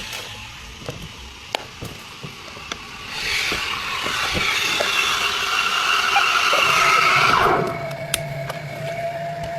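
Shop counter work: scattered light clicks and knocks of cups and utensils, then a loud hiss with a faint whistling tone for about four seconds that ends in a falling squeal.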